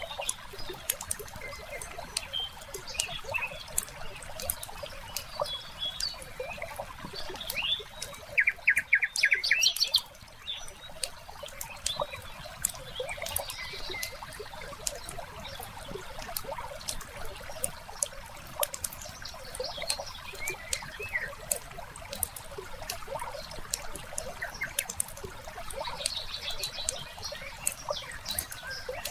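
Wood fire crackling with many small sharp pops, layered with songbirds chirping now and then and a faint trickle of water. About eight seconds in, a loud rapid chattering call runs for nearly two seconds.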